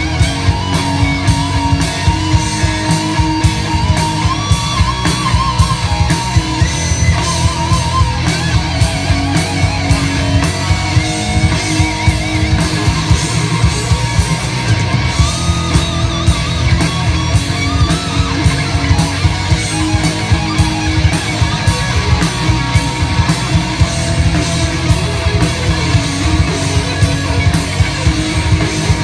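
Live rock band playing an instrumental passage: electric guitar notes with vibrato over a steady, driving drum beat and bass.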